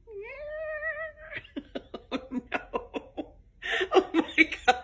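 A person laughing in quick repeated bursts that grow louder near the end, after a long wavering pitched call at the start.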